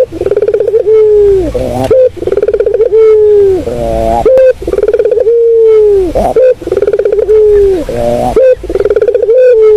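Burung puter (Barbary dove) cooing loudly and repeatedly: each phrase opens with a quick rolling pulse, settles into a long low note and ends in a rising glide, a new phrase about every two seconds. This is the cooing used as a decoy call to lure other doves.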